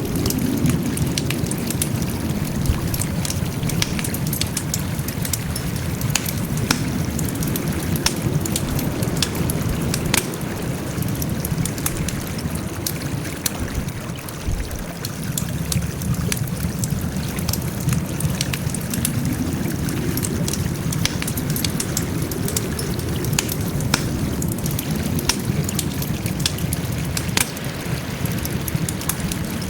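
Wood campfire burning, with frequent sharp crackles and pops over a steady low rush of flame.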